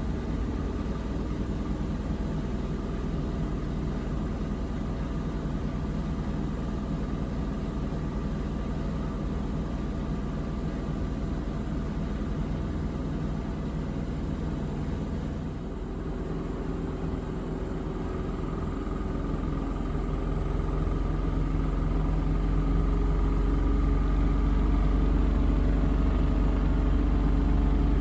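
Miele Navitronic W3985 WPS washing machine in its final spin, running steadily at about 1200 rpm. About two-thirds of the way through it dips briefly, then starts speeding up toward 1400 rpm, its whine rising and the sound growing louder.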